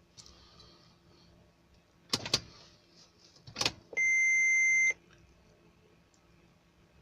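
Clicks of the ignition key and cab controls in a Mercedes-Benz Actros truck: two quick clicks, then another, followed by a steady electronic beep about a second long from the dashboard as the ignition is switched on, with the engine not yet running.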